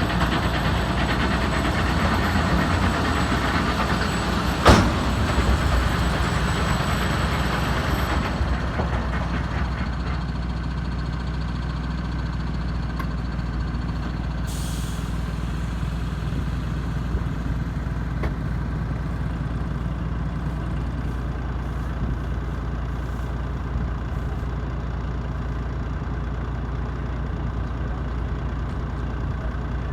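Tractor engine running steadily with machinery noise over it, the noise louder for the first eight seconds or so. There is a sharp knock about five seconds in and a brief hiss near the middle.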